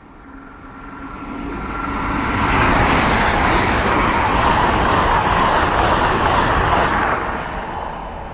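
A train passing by on the railway line. Its noise builds over the first couple of seconds, stays loud for about five seconds, then fades near the end.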